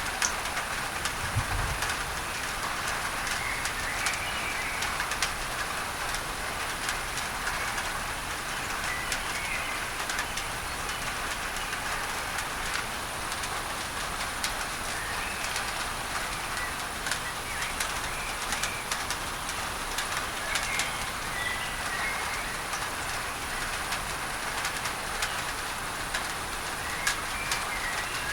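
Steady rain falling on a tin roof, a thick hiss dotted with drop clicks, with an even masking noise mixed in. Birds chirp briefly now and then.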